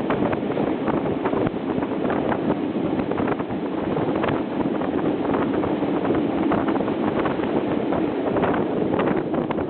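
Passenger train running at speed, recorded from on board: a steady rumble of wheels on the track with many short clicks, and wind buffeting the microphone.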